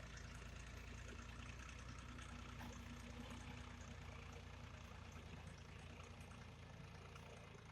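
Tractor engine running steadily with a low, even hum that eases slightly near the end.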